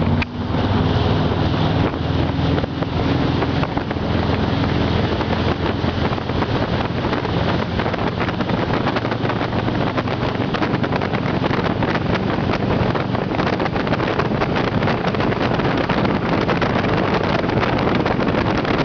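Motorboat engine running steadily under way, with heavy wind buffeting the microphone.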